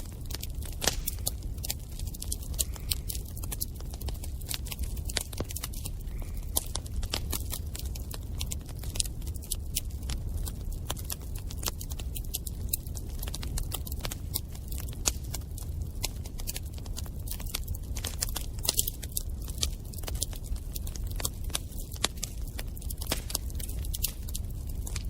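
Bonfire burning: irregular sharp crackles and pops of burning wood over a steady low rumble of the flames.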